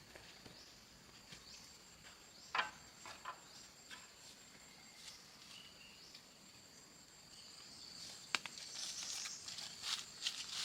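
Faint outdoor ambience of insects calling steadily at a high pitch, with a few scattered clicks and a brief sharp sound about two and a half seconds in. Near the end a rustling, crackling noise grows louder.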